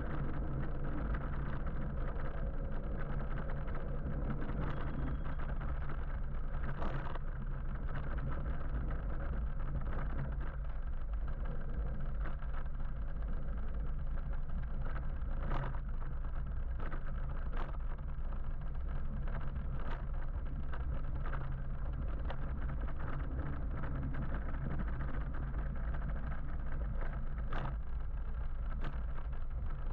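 Steady road and traffic noise heard from a moving electric motorbike: a constant low rumble with a few short clicks or knocks scattered through it.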